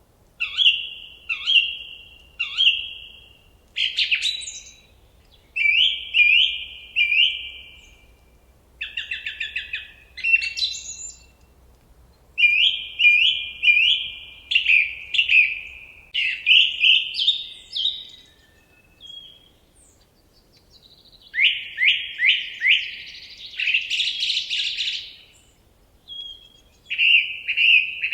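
Forest birdsong: phrases of two to four quick, sweeping whistled notes, repeated with short pauses between them. Near the end comes a denser, buzzier stretch.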